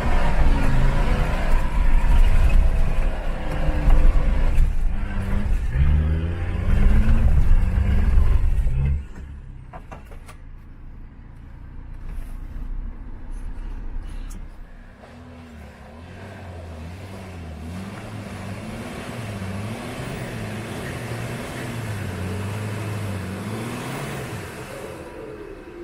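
Mercedes G-Class engine revving hard under load off-road, its pitch rising and falling, until it drops away suddenly about nine seconds in. Later a quieter engine revs up and down over and over.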